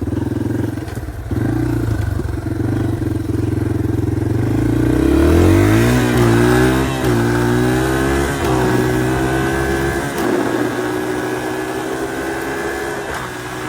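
Dirt bike engine running while riding a trail. About five seconds in it revs up, its pitch climbing and dipping several times, then it settles to a steadier, lower pace about ten seconds in.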